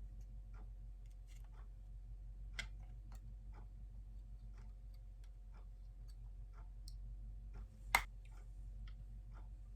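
Small plastic clicks and handling noise from a penlight glowstick being handled, with one sharp, louder click about eight seconds in, over a low steady hum.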